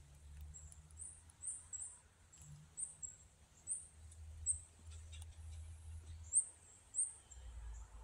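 A small bird's very high-pitched call notes, short and repeated about a dozen times at irregular intervals.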